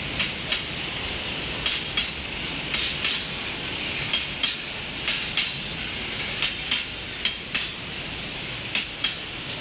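Train cars rolling past: a steady rush of wheel-on-rail noise, with the wheels clacking over rail joints in quick pairs about once or twice a second.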